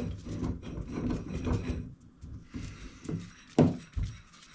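Steel and cast-iron parts of a disassembled bench vise being handled and wiggled, clunking and rubbing against each other, with two sharp knocks near the end.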